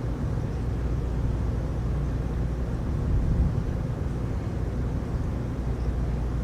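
Heavy rainstorm: a steady low rushing noise that swells slightly about three seconds in.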